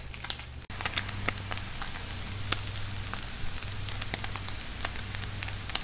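Spiced chicken strips frying in oil in a stainless steel pan: a steady sizzle with many small crackles and pops, starting sharply just under a second in.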